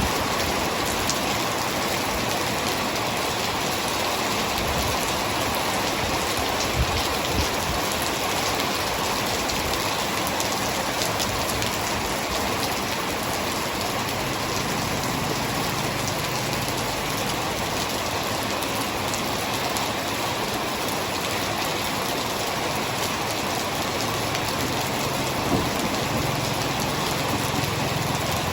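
Heavy rain falling steadily, a dense even hiss with a few louder drop hits. A low rumble sets in about halfway through and grows a little toward the end.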